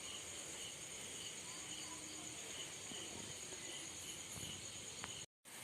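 Steady high-pitched trilling of crickets in the background, faint and continuous, with a brief total dropout near the end.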